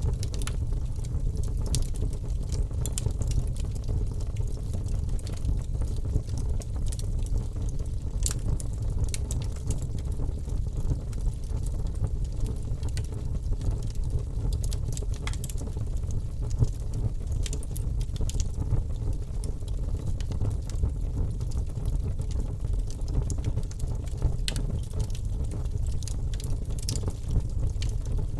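Wood fire burning in a fireplace: a steady low rush from the flames with frequent sharp crackles and pops scattered at irregular moments.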